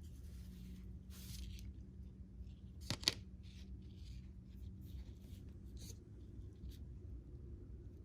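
Hands working fishing line while tying a hook knot: faint rustling and rubbing, with a sharp double click about three seconds in.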